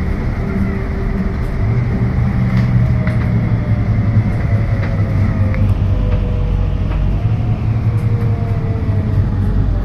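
Scania K320UB hybrid bus heard from inside the cabin while driving: a steady low drone with a faint whine that slowly shifts in pitch as the speed changes, and light rattles from the body throughout.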